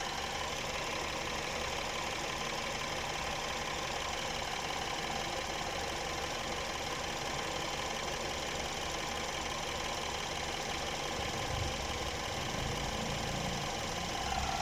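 BMW N13 1.6-litre turbocharged four-cylinder petrol engine idling steadily with a new PCV valve fitted: it is no longer misfiring and has no noise from the valve.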